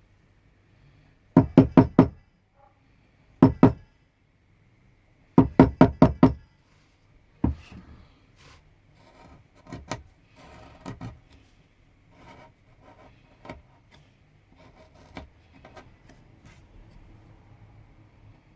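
Mallet blows on a carving chisel cutting into pine: quick runs of four, then two, then five sharp knocks in the first six seconds and a single knock just after, followed by softer scattered clicks and scraping of the blade in the wood.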